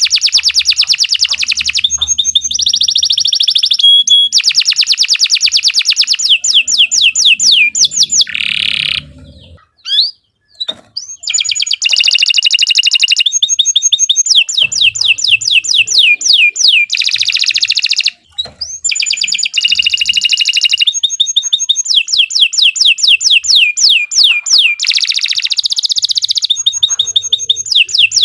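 Domestic canary singing a long, continuous song of fast rattling trills and rapidly repeated sweeping notes, with short breaks about ten and eighteen seconds in.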